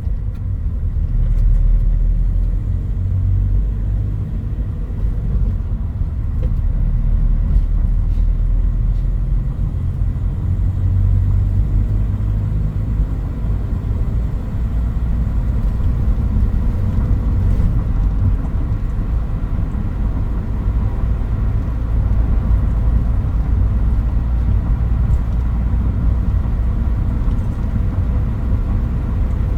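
Toyota Hilux Mighty-X pickup truck driving on the road: a continuous low engine and road rumble that swells and eases a few times as the engine note shifts.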